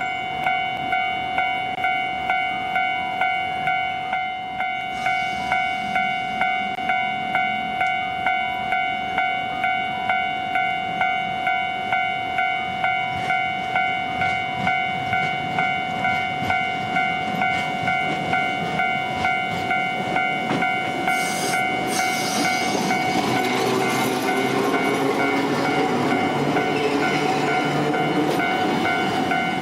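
Railway level-crossing warning bell ringing steadily at about two beats a second. About two-thirds of the way through, a train's running noise swells up under it as the train passes.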